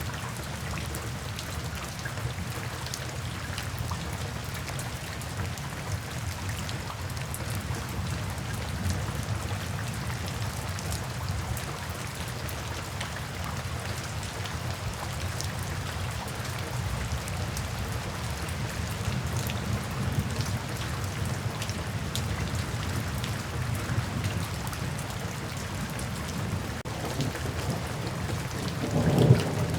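Steady rain falling, an even hiss of drops over a low rumble. A louder swell of thunder starts just before the end.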